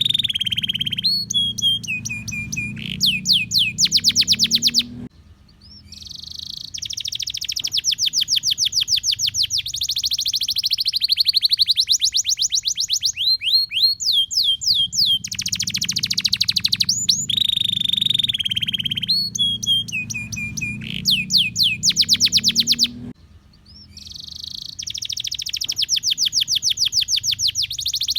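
Domestic canary singing a long, continuous song of fast trills and rolls, mixed with held whistled notes and quick descending chirps. There are two brief pauses, and the same song phrases come around again, so the song repeats as a loop.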